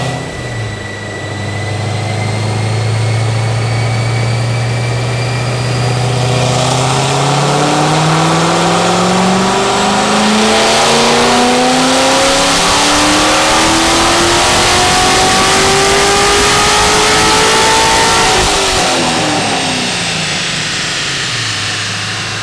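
A 2013 Corvette 427's 7.0-litre LS7 V8, with aftermarket heads, headers, a Vararam intake and a tune on the stock cam, makes a full-throttle pull on a chassis dyno. It holds a steady low note for about six seconds, then its pitch climbs steadily for about twelve seconds to the top of the rev range. It then lifts off and winds back down to a low steady note. This pull makes about 562 horsepower.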